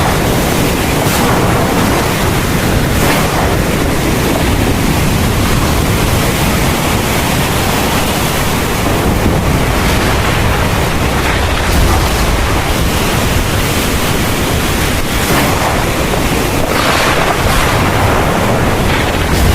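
Heavy rain pouring steadily, a dense hiss with a strong low rumble underneath.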